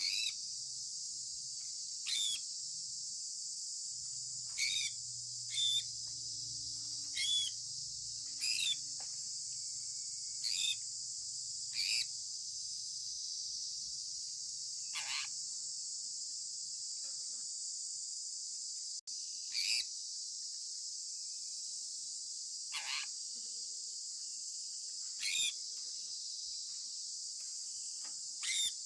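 A steady high-pitched insect drone, like a cricket chorus, with short sharp bird chirps about every one to three seconds, some of them sweeping downward in pitch. The sound drops out for an instant a little past the middle.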